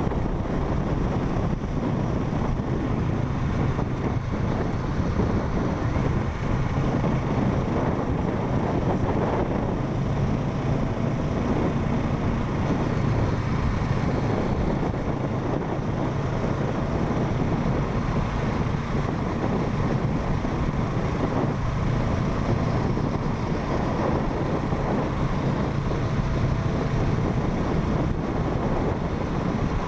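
Motorcycle riding at a steady speed: wind rushing on the microphone over the steady drone of a parallel-twin engine.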